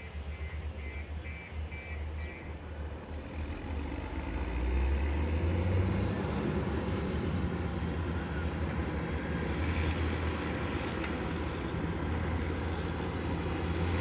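Heavy diesel engine running, revving up and getting louder about four to five seconds in, then holding under load. A repeating electronic beep, about two a second, sounds over it at the start and stops after a couple of seconds.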